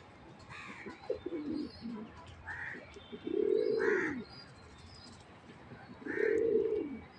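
Sherazi pigeons cooing: a few short low calls early, then two long rising-and-falling coos about three and six seconds in, with faint higher chirps between.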